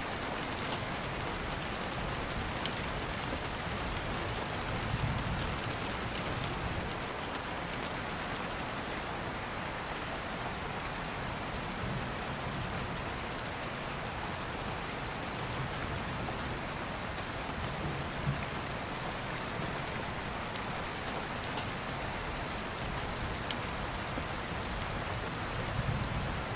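Steady rain pattering, with a few sharp crackling pops from a wood fire and soft low rumbles now and then.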